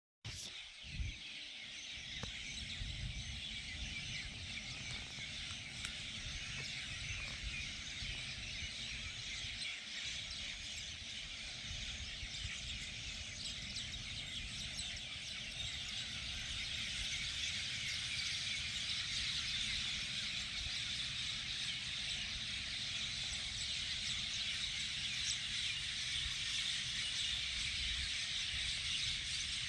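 Outdoor natural ambience: a dense, steady chorus of high chirping that swells a little louder later on, over a low rumble like wind on the microphone.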